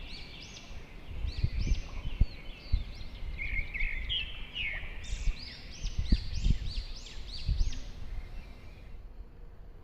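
Several songbirds singing together, a dense run of short, high, arching notes repeated over and over, that cuts off abruptly near the end. Low thumps come in irregularly through the middle.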